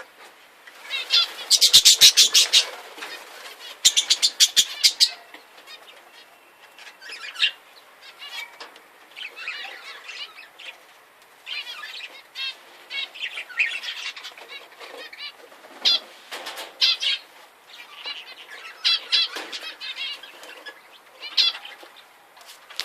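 Ornamental birds chirping throughout, with two loud bursts of rapid fluttering about two and four seconds in.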